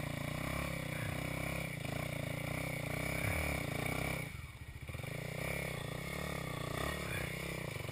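A vehicle engine running steadily, briefly dropping away about halfway through and then picking up again.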